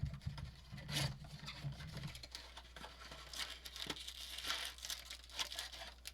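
Trading card pack wrappers crinkling and tearing, with soft clicks and rustles as cards are handled and flipped.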